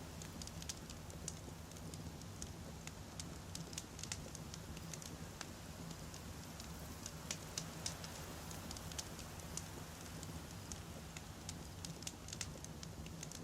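Wood campfire burning, with frequent irregular sharp crackles and pops over a steady low rumble.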